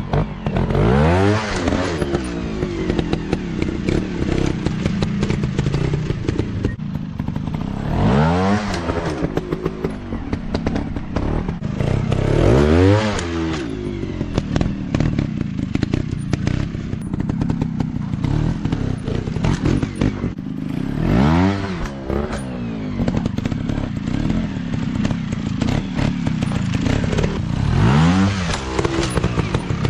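Off-road dirt bike engines revving, the pitch climbing and dropping back about five times, over steady engine running and a clattering of knocks and scrapes.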